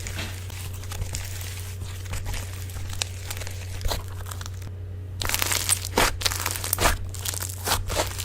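Slime being squeezed and stretched by hand, giving dense crackling and sticky tearing sounds. After a brief break about five seconds in, the crackles turn sharper and louder. A steady low hum runs underneath.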